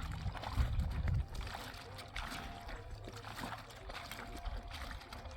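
Portable radio giving a noisy shortwave broadcast: static hiss and rumble with faint whistling tones and indistinct voices.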